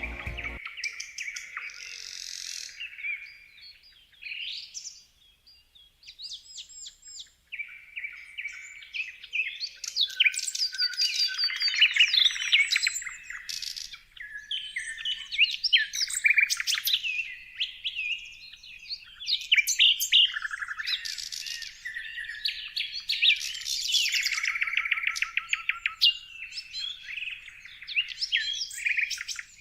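Several birds singing and chirping: quick rapid trills, short sweeping whistles and chirps, overlapping in a busy chorus. A few seconds of near quiet come after about four seconds, and then the song picks up again.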